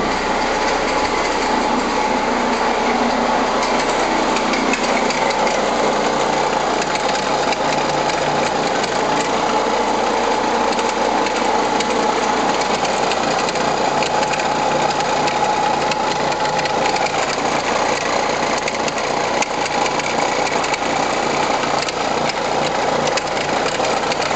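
Renault Scénic 1.9 dCi four-cylinder turbodiesel engine running steadily with a rapid mechanical clatter and a steady whine over it. This is the noise the owner finds suspicious.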